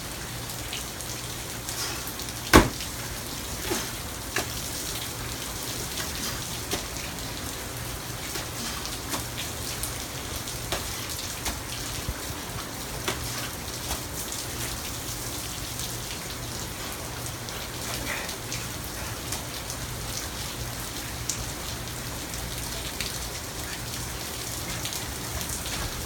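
Steady rain falling, with scattered louder drops ticking close by and one sharp tap, much louder than the rest, about two and a half seconds in.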